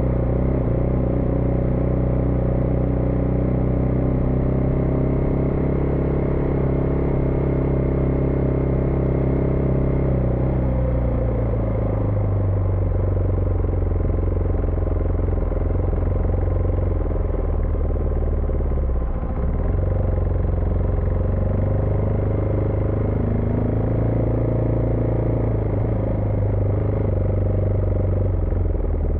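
Husqvarna Vitpilen 401's single-cylinder engine running under way. Its pitch holds steady for about ten seconds, drops, dips briefly about two-thirds of the way in, then rises again and falls near the end as the throttle and gears change.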